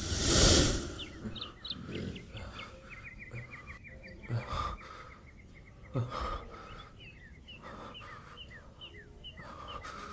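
Small birds chirping in a steady run of short, quick calls, about three a second. It opens with a loud rushing whoosh lasting about a second, and a couple of dull thumps come near the middle.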